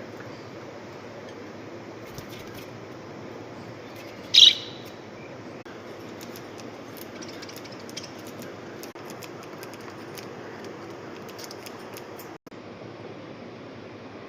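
A budgerigar gives one loud, short chirp about four seconds in, over a steady background hiss with faint scattered clicks.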